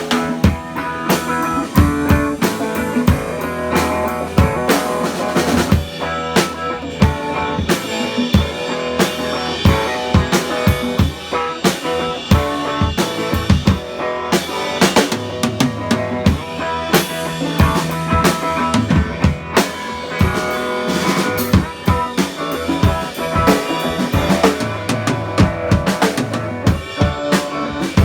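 Live band jamming: a drum kit keeps a busy beat of bass drum, snare and rimshots, with pitched instruments playing sustained notes over it.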